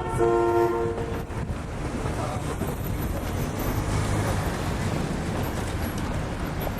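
A vehicle horn honks as a steady two-note chord for about a second at the start, then city street traffic rumbles on with passing vehicle noise.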